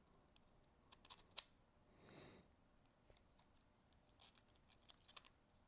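Faint, scattered light clicks and taps of 3D-printed plastic lock discs being handled and set in place: a few about a second in, then a quick run of small clicks near the end.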